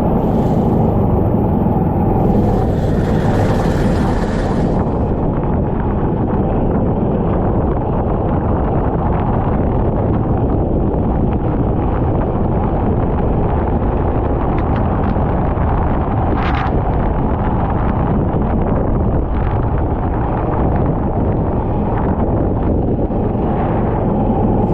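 Kart engine running steadily, recorded onboard, with wind buffeting the microphone; a brief sharper noise about two-thirds of the way in.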